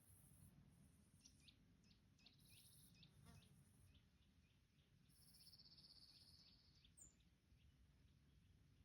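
Faint outdoor nature sound: a bird giving a run of short, quick chirps, with a brief trill about halfway through, over high buzzing bursts from insects that come and go.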